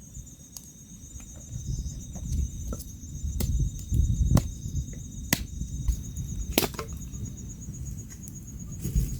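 Crickets chirping steadily with a rapid pulsing trill, broken by about half a dozen sharp cracks and snaps of wood, over a low rumble.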